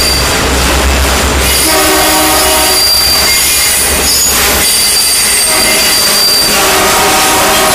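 Freight train of autorack cars rolling by, steel wheels squealing against the rails in high, sustained tones over the rumble and clatter of the cars. A deep rumble drops away about halfway through.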